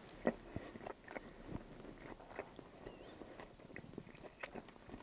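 A person chewing and biting into a toasted sausage and egg sandwich close to the microphone: a string of soft, irregular mouth clicks and crunches, with one louder click about a third of a second in.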